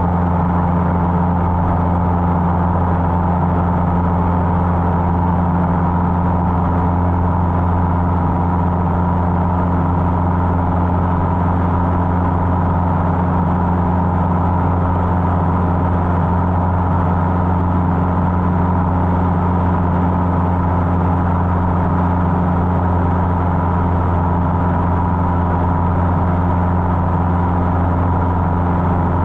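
Cessna 150's Continental O-200 four-cylinder engine and propeller droning steadily in flight, with no change in pitch or power.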